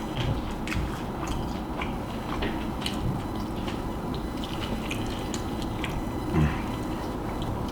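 Close-miked eating sounds of a person chewing spicy fried chicken: irregular wet smacking and clicking of the mouth, with one louder low thump about six and a half seconds in.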